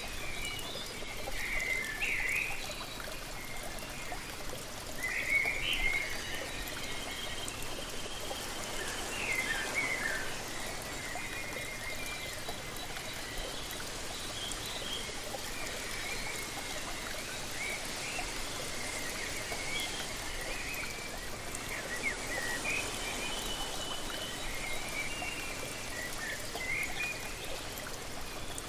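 Steady rush of falling and trickling water from a waterfall, with songbirds chirping and calling in short bursts throughout.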